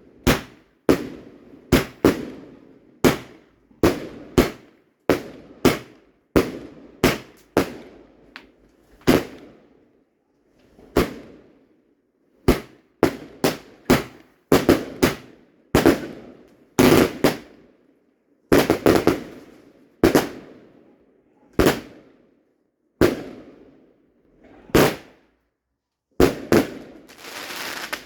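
Fireworks going off: a long series of sharp bangs at irregular intervals, roughly one to three a second, each dying away quickly.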